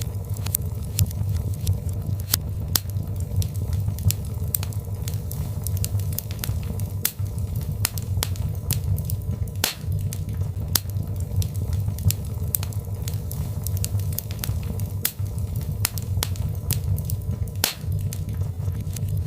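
Birch logs burning in a fireplace: a steady low rumble of the flames with irregular sharp crackles and pops, two louder pops about ten seconds in and near the end.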